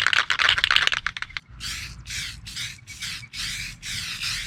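Aerosol can of Rust-Oleum Rusty Metal Primer rattling briefly as it is shaken, then spraying in a string of short hissing bursts, about two a second, laying down a light coat.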